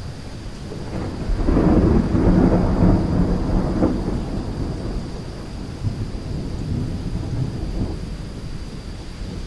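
Thunderstorm: steady heavy rain with a long roll of thunder that builds about a second in, is loudest for two or three seconds, then rumbles away.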